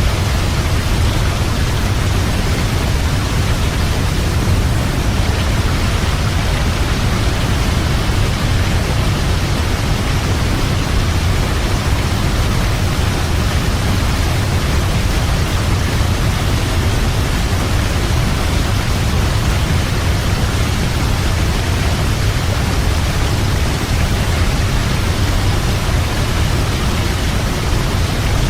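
Waterfall: a steady, loud rush of falling water with a deep low rumble, unchanging throughout.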